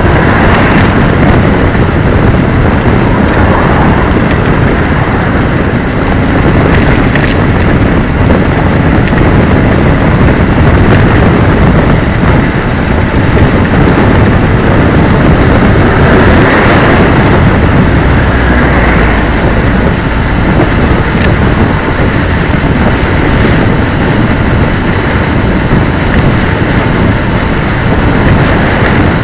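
Wind rushing over the camera microphone while riding, a loud, steady roar with road and vehicle noise mixed in.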